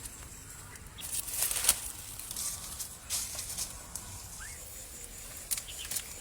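Faint outdoor rustling and crackling, with scattered short clicks and one brief rising chirp about four and a half seconds in.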